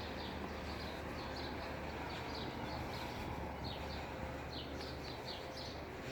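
Small birds chirping: short high notes, a couple a second at irregular intervals, over a steady low background hum.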